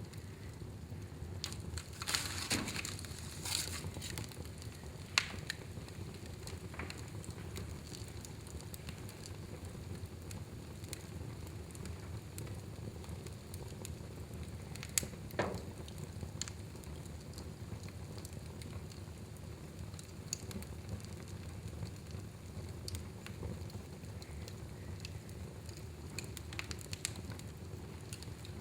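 Wood fire burning in a fireplace: a steady low rumble of flames with scattered sharp crackles and pops, a cluster of louder ones a few seconds in and another about halfway.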